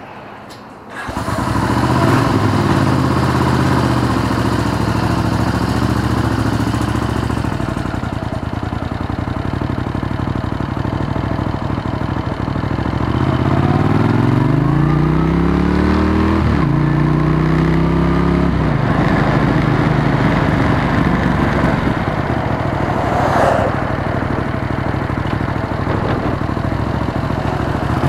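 1980 Honda CX500's liquid-cooled V-twin engine starting about a second in and running, then pulling away. The revs climb and drop back again and again as the bike goes up through the gears.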